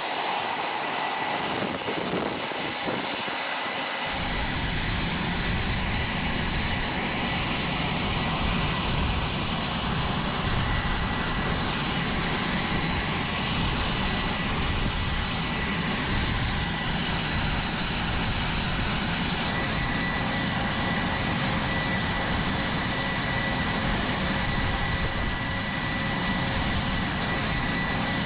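Jet aircraft engines running on an aircraft carrier's flight deck: a continuous dense roar with a steady high turbine whine. A deep rumble joins about four seconds in.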